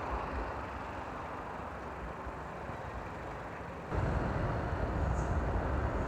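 Modified Honda PCX scooter's single-cylinder engine and CVT running under way, with road and wind noise; the sound gets suddenly louder about four seconds in.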